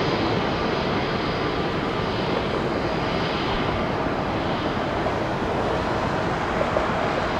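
Airbus A220-300 airliner's Pratt & Whitney PW1500G geared turbofans running at departure thrust: a steady, loud jet roar with a faint high whine.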